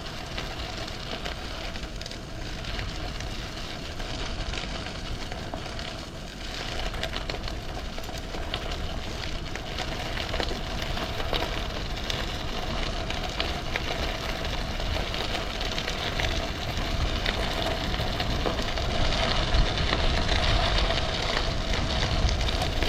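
Bicycle rolling on a loose-surfaced path: tyres crackling over grit with a low rumble of wind on the microphone, growing slowly louder as speed builds downhill. A faint steady hum runs under it.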